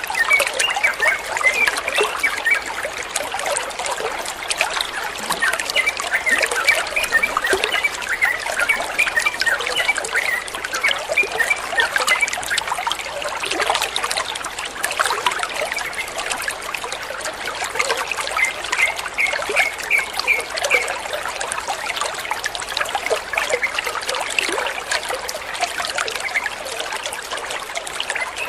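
Water trickling steadily, with a yellow-vented bulbul (trucukan) giving runs of short, quick chirps several times.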